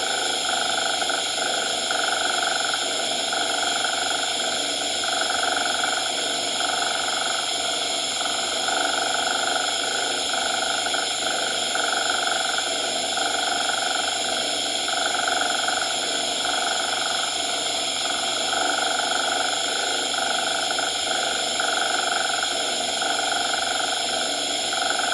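Cat purring layered with steady coloured noise (pink/brown-type hiss in fixed bands); a mid-pitched part of the sound swells and fades about once a second, in step with the purr's in-and-out breaths.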